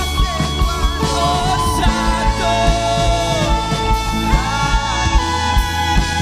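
Worship band playing a song with a steady beat, a voice singing sustained, gliding lines over held chords.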